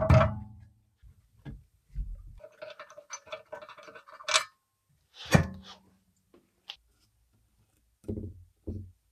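Metal parts and tools being handled on a workbench: a run of separate knocks, clinks and scrapes, a stretch of clinking with a short metallic ring in the middle, a sharper hit about five seconds in, and two duller thuds near the end.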